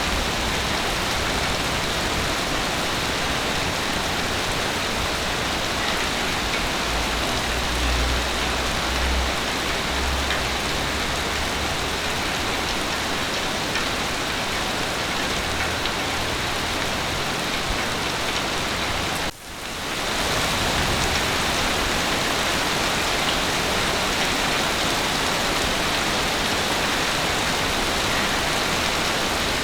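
Heavy rain pouring steadily, an even hiss of drops on a surface. There is a low rumble several seconds in, and about two-thirds of the way through the sound cuts out for an instant and fades back in, as at a loop joint.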